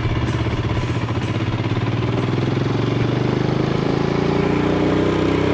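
Motorcycle engine running under way, its pitch climbing from about three seconds in as it accelerates.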